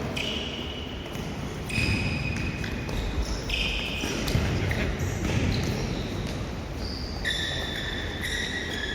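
Futsal being played on an indoor court: shoes squeaking repeatedly on the floor, with the ball thudding.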